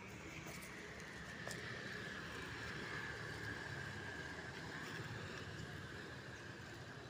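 Small electric motor of a toy truck whining steadily at a high pitch, dipping a little in the first two seconds, over a low rumble.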